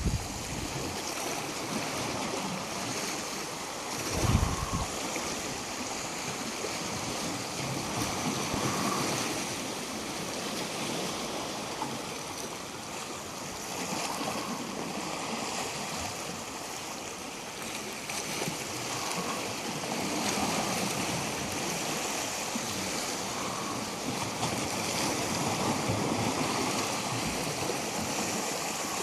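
Small waves washing onto the shore, a steady rush of water that swells and eases every few seconds. A brief low rumble of wind on the phone's microphone about four seconds in.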